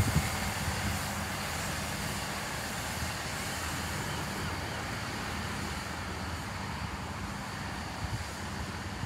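Diesel passenger train moving slowly through the station, its engines a steady low rumble under a wide hiss of station noise.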